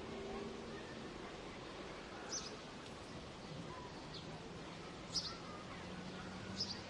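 Birds giving short, high chirps, four scattered through, over a steady hum of background city noise.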